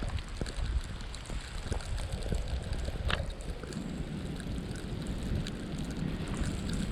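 Blizzard wind buffeting the microphone in a gusting low rumble, with a few short faint knocks scattered through it, the sharpest about three seconds in.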